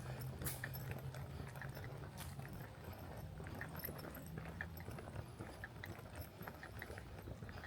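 Footsteps of a person walking along a trail, a run of soft, uneven steps over a steady low hum.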